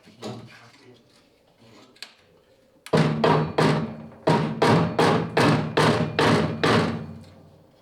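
Mallet blows on a screwdriver driving a VW Beetle's torsion-bar spring plate off its stop. There is a quick run of about a dozen sharp strikes, roughly three a second, starting about three seconds in, with the metal ringing low under them.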